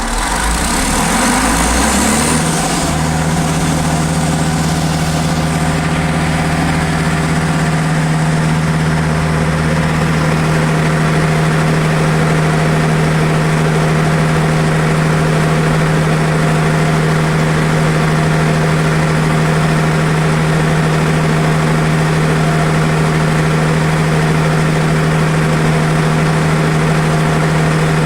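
Diesel generator engine just after starting, speeding up over the first two seconds or so, then running steadily at one even speed.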